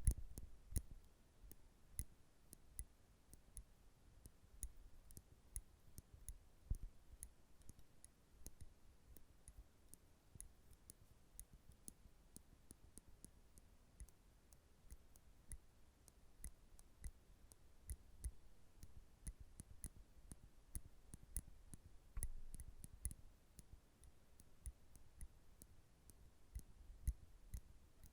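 Nail clippers clicking: a steady run of faint, sharp little clicks, about two to three a second.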